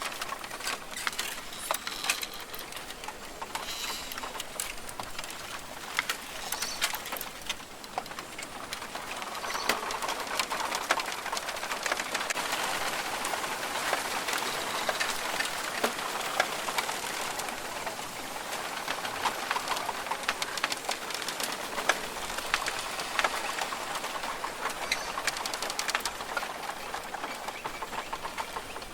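Rainforest ambience: birds calling over a steady hiss, sprinkled with many small ticks and clicks. The hiss grows louder about a third of the way in.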